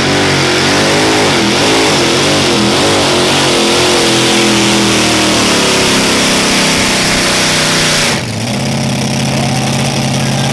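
Super modified two-wheel-drive pulling truck's engine at full throttle during a pull, its pitch wavering up and down. About eight seconds in it drops off the throttle suddenly and settles to a steady, lower idle.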